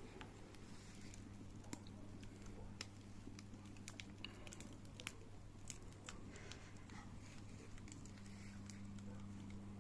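Campfire crackling faintly, with irregular sharp pops and snaps of burning wood, over a steady low hum.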